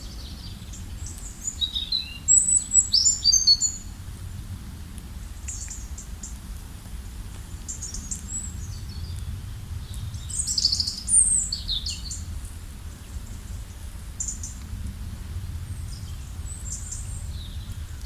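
Songbirds chirping in quick, high notes, in a loud cluster about two seconds in and another around ten seconds, with scattered calls in between. A steady low rumble of background noise runs underneath.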